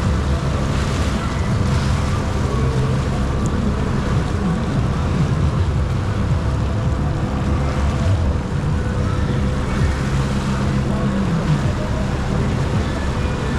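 Jet ski engine running at speed, its note rising and falling slightly with the throttle, under a hiss of water spray and wind on the microphone.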